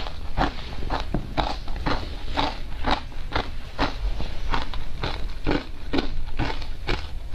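Close-up crunching of ice coated in matcha powder being bitten and chewed: a steady run of crisp crunches, about two a second.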